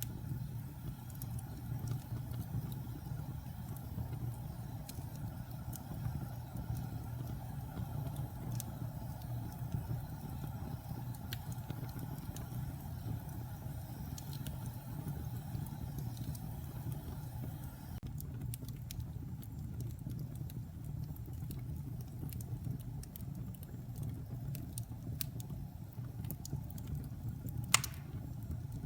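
Wood fire burning in a fireplace: a steady low rumble of flames with scattered crackles from the wood, and one sharp, louder pop near the end.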